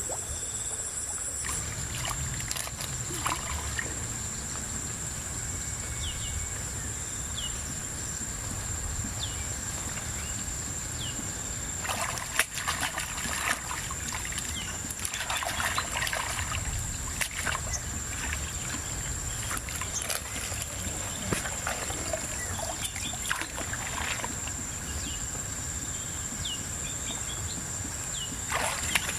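Shallow river water sloshing and trickling as someone wades and gropes in the muddy bottom for freshwater mussels, with several louder splashes scattered through. A steady high-pitched whine runs underneath.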